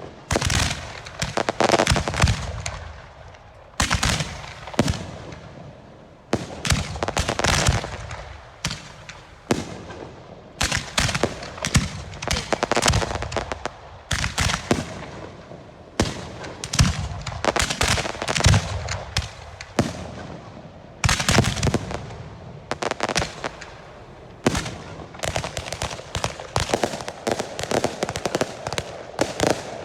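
Girândolas of Portuguese festival rockets (foguetes) bursting in volleys. Rapid strings of sharp bangs and crackle come in cluster after cluster, with short lulls between them every few seconds.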